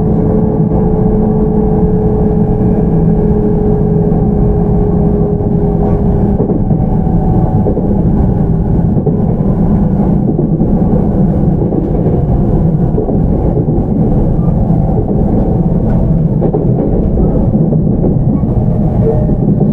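JR 313 series electric train (motor car MoHa 313-9, Toshiba IGBT VVVF) running, heard inside the car: a steady, heavy rumble of wheels on rail. A steady whine runs over it and stops about six seconds in.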